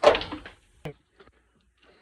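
A loud knock with a brief rattle, then a single sharp click just under a second later: the knock and click of hard objects being handled.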